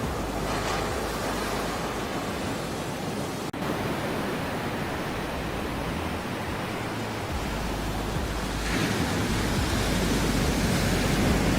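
Ocean surf: a steady wash of waves, swelling louder as a wave comes in about nine seconds in. A momentary dropout about three and a half seconds in.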